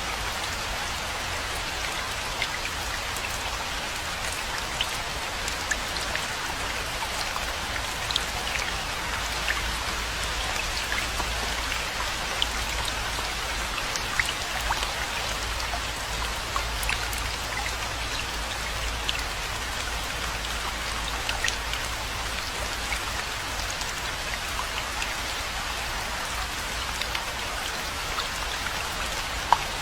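Steady rainfall: a constant hiss with many separate drops ticking sharply on top of it.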